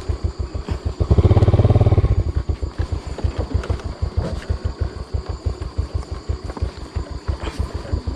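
Motorcycle engine running at low speed with an even chugging beat. It grows louder for about a second, a second in, as if given more throttle.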